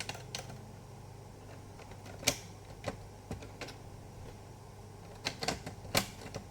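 Scattered clicks and light knocks of plastic laptop parts being handled and fitted back together, the loudest about two seconds in and again near the end.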